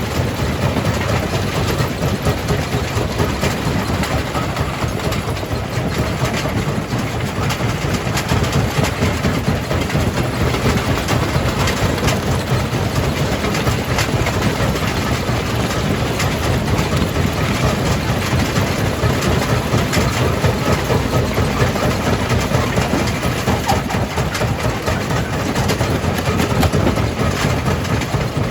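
Jaw crusher running steadily under load as it breaks rock: a constant heavy rumble with scattered sharp cracks and clatter throughout.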